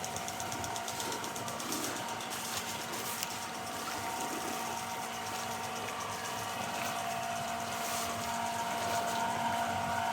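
Garden sprinklers spraying water with a rapid, regular high ticking, over the steady hum of a motor, growing slowly louder.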